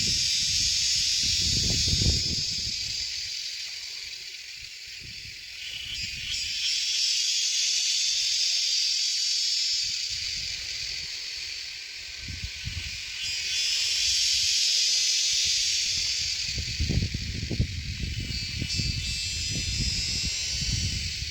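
A high, hissing drone that swells and fades in long waves several seconds apart, over irregular low rumbling buffets on the microphone.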